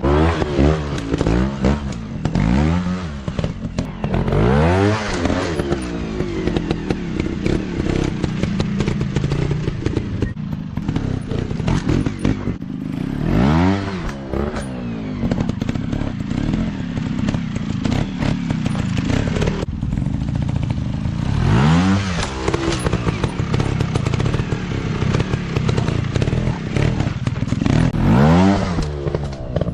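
Several dirt bike engines running, their notes repeatedly rising and falling as the throttle is opened and eased off. Stronger revs come about every few seconds, over a steady mix of engines.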